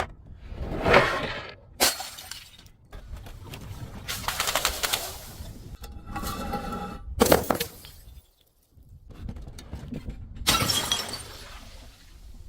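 Glass being crushed and shattering in a series of separate crashes and crunches, one of them leaving a brief ringing.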